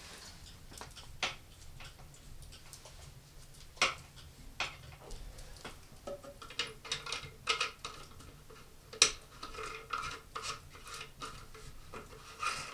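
Scattered light clicks and knocks of small hard objects being handled, a few sharper ones about four and nine seconds in.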